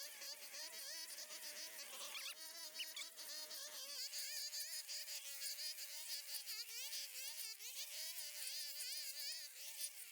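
A thin, buzzing whine that wavers slowly up and down in pitch.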